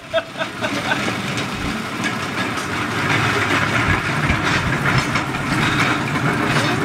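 A rail bike's steel wheels running along railway track, a steady rattling with scattered clicks that grows a little louder about halfway through.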